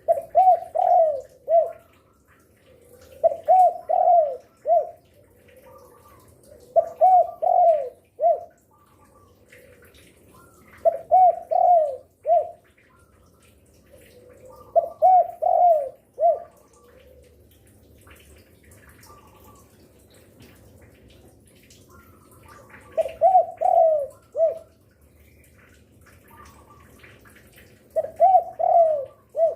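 Spotted dove cooing, repeating the same short phrase of three or four notes seven times, about every four seconds with one longer pause in the middle. Faint twittering of other small birds lies underneath.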